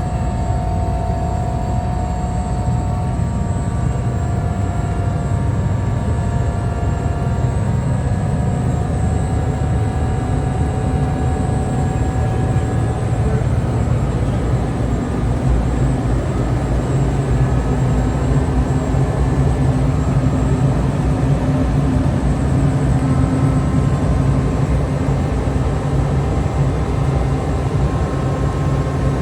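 Steady low machinery drone with several humming tones over it, the running noise of chiller plant equipment.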